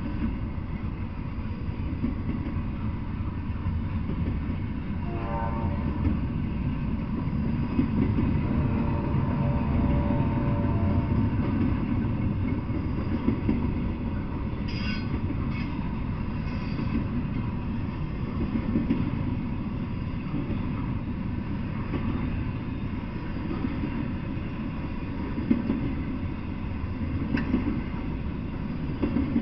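Double-stack intermodal freight cars rolling past on the rails, a steady rumble of wheels and cars. About a fifth to a third of the way in, a faint pitched tone sounds for a few seconds.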